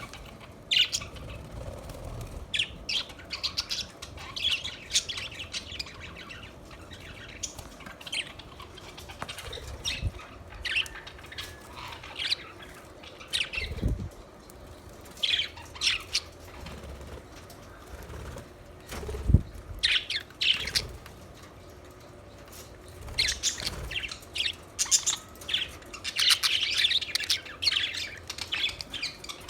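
Budgerigars chirping and chattering in short, high, scattered calls that come thickest near the end, with two dull thumps about halfway through.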